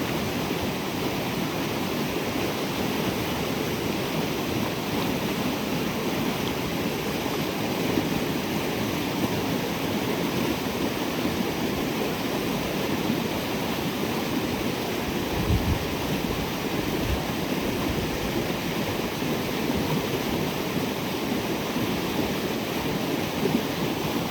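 Creek water rushing steadily. Two brief low thumps come about two-thirds of the way through.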